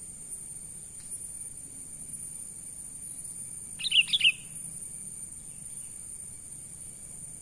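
Sooty-headed bulbul giving one short call of about four quick notes about four seconds in, over a steady high-pitched insect drone.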